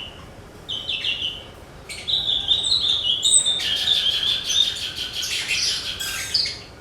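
Javan bush lark (branjangan) singing: a short phrase about a second in, then from about two seconds a long, fast, unbroken run of high notes.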